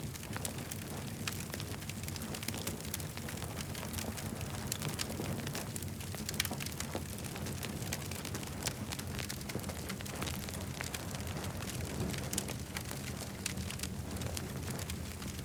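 Campfire burning, with frequent sharp crackles and pops from the burning wood over a steady low rumble.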